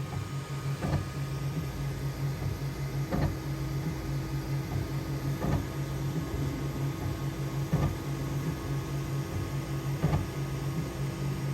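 Bambu Lab X1 Carbon 3D printer running a print: its stepper motors give a low hum whose pitch steps up and down as the print head moves, with a faint tick about every two and a half seconds.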